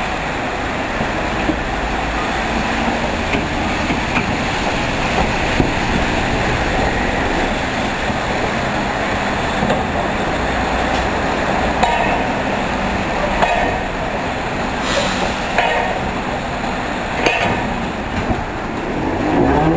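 Rail vehicles rolling slowly over station track: a steady rumbling wash, with a few sharp wheel clacks over rail joints or points in the second half.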